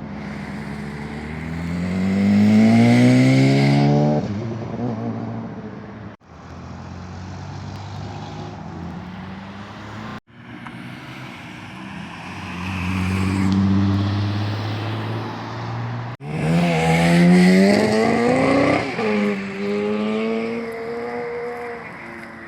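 Vehicle engines revving hard and accelerating away, pitch rising as they pull off, in several short clips joined by abrupt cuts.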